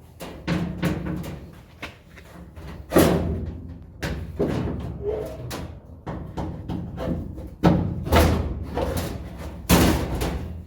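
Sheet-metal panels being handled and fitted inside a truck cab: irregular knocks and thumps, with several loud sharp bangs of metal, one about 3 s in and a cluster near the end.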